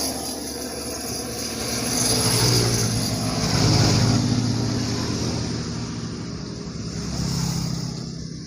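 Motor vehicles passing on a road, their engines swelling and fading, loudest about two to four seconds in and again near the end.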